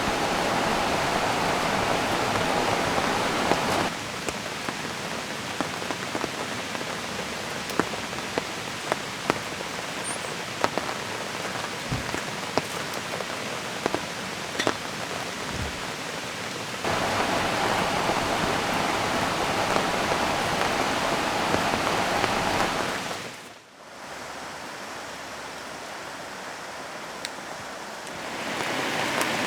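Steady rain falling, with individual drops ticking, mixed with the rush of a flowing river. The level steps down about four seconds in, back up around seventeen seconds, dips sharply near twenty-four seconds and rises again near the end, where recordings are joined with fades.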